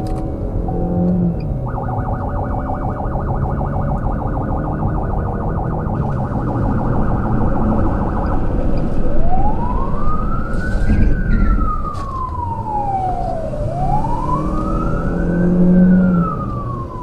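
Emergency vehicle siren: a fast warbling yelp from about two seconds in, switching past the middle to a slow wail that rises and falls twice, over the steady running of a vehicle engine.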